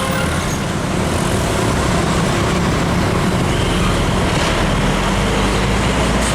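Heavy truck passing close by on the road: diesel engine running with loud, steady tyre and road noise.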